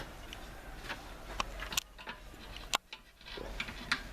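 A few faint, scattered metallic clicks and taps of hand tools working at the rusted nuts and bolts of a compressor motor, over a low steady hum.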